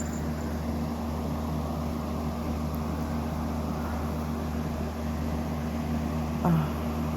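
Steady machine hum, with a short knock about six and a half seconds in.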